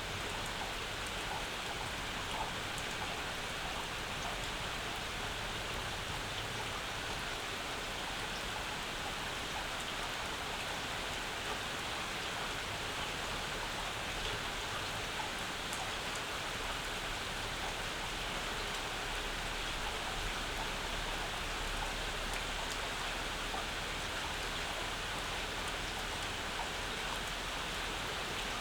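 Steady summer rain falling, a dense even hiss with scattered individual drops ticking on nearby surfaces.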